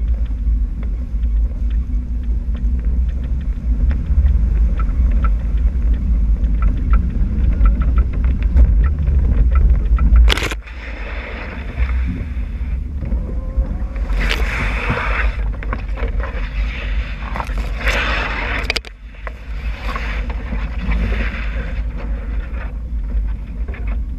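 Jeep CJ7 being driven off-road: a heavy low engine and wind rumble on the camera microphone, with rattling clicks. A sharp knock comes about ten seconds in, and after it there are several bursts of hiss, each lasting about a second.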